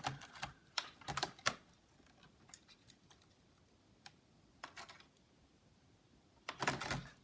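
Small plastic clicks and taps from handling an opened laptop's parts and cable connectors. There is a quick run of clicks at the start, a few faint scattered ticks, and another cluster of clicks near the end.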